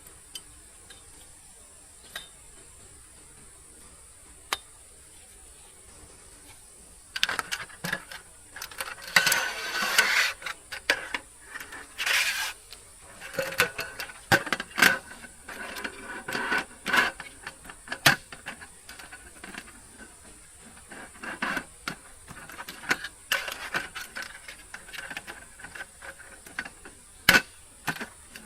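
A steady high insect drone with a few isolated clicks. From about seven seconds in comes a run of irregular clicks, clatters and scraping, like objects being handled and knocked together at close range.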